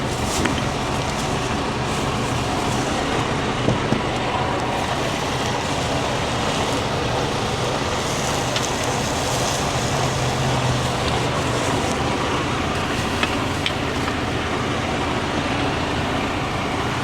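Steady engine drone of an idling truck, with a few faint clicks.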